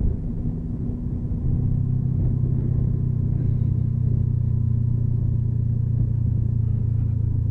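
Engine of a big, heavy motorcycle running steadily on the road, a low rumble whose note shifts slightly about a second and a half in and then holds even.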